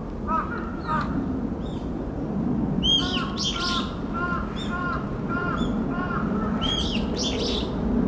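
Songbirds calling in the tree canopy: a run of short, clipped notes repeated about twice a second through the middle, with higher, sharper down-slurred calls near the middle and again near the end. A steady low background noise runs underneath.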